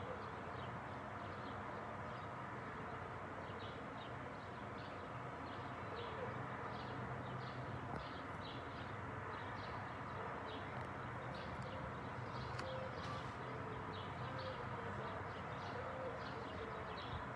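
Small birds chirping in many short, high notes over a steady background hum.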